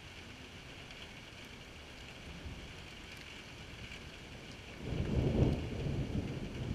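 Steady rain falling on wet pavement and puddles, an even hiss with scattered drips. About five seconds in, a sudden deep rumble swells up and stays loud, the loudest sound.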